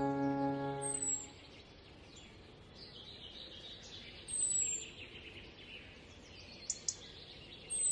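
Background music holding a chord cuts off about a second in, leaving faint birdsong: short, high thin chirps coming back every few seconds over a low hiss, with a brief louder burst of twittering near the middle.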